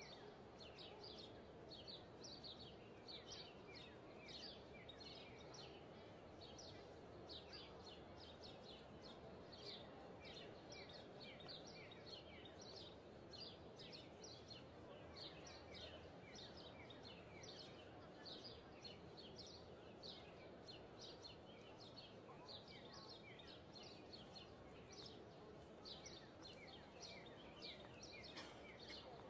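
Many small birds chirping in a dense, continuous chorus of short, quick notes, over a faint steady background noise.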